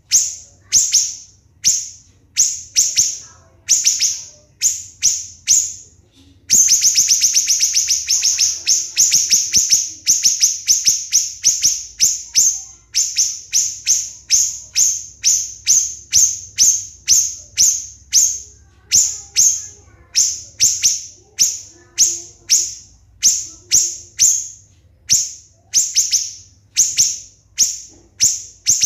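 Siri-siri bird calling: a long series of short, sharp, high-pitched notes, each falling quickly in pitch. At first they come about one or two a second; a few seconds in they break into a fast, close-set run, then carry on at two or three a second.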